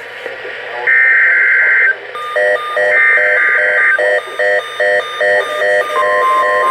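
NOAA Weather Radio alert tones: two screeching, roughly one-second SAME header data bursts, then about six seconds in the steady 1050 Hz weather alert tone begins. From about two seconds in, an electronic alarm beeps rapidly alongside, two or three beeps a second. This is the start of a severe thunderstorm watch alert being toned.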